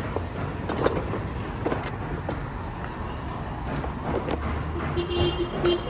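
Steady low rumble of vehicle traffic, with a few light clicks and a short steady tone near the end.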